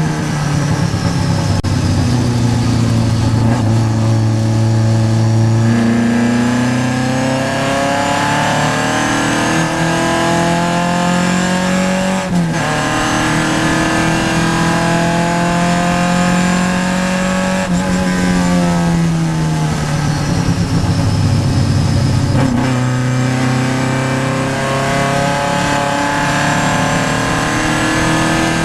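Vintage Triumph race car's engine heard from inside the car at racing speed, its pitch climbing and falling through the gears, with sudden breaks about twelve seconds in and again near the end, and a slide down in between.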